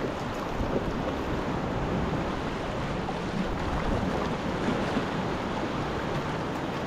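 Sea waves washing and surging, with wind noise on the microphone.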